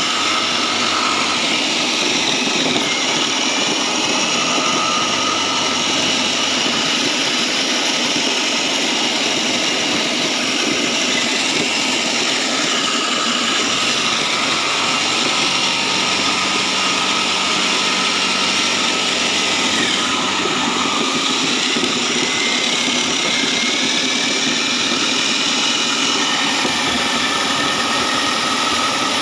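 Foam-shredding machine running steadily, its motor tone dipping in pitch and recovering several times.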